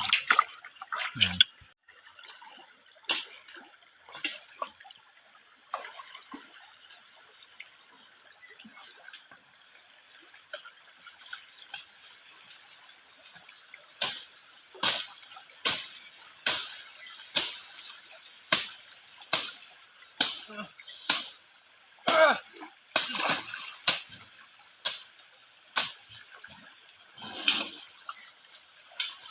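Flowing water trickling steadily, with a run of sharp splashes or slaps in shallow water at about one a second through the second half.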